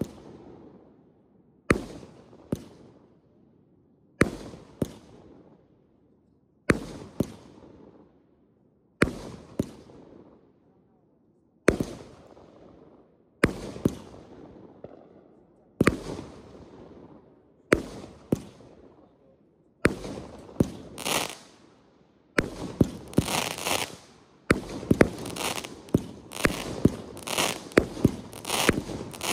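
Aerial consumer fireworks firing: sharp reports about every two seconds, often two close together, each fading away with echo. Near the end they give way to a fast, dense volley of shots and crackling star bursts.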